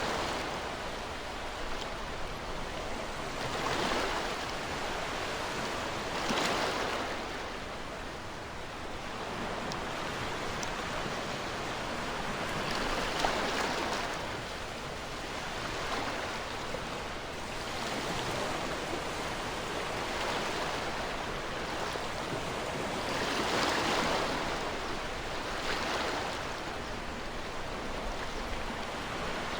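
Ocean waves washing onto a shore, a steady rushing with soft swells every few seconds as each wave breaks.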